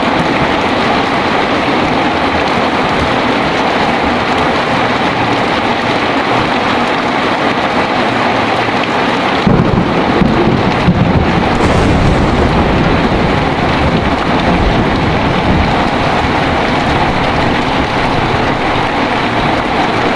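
Heavy rain falling steadily, with a deep rumble of thunder breaking in about halfway through and carrying on to the end.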